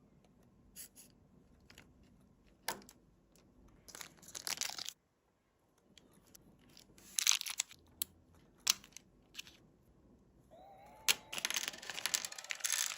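Packaging of an RC helicopter being handled and torn open: rustling, crinkling and tearing in several bursts, with sharp clicks between them.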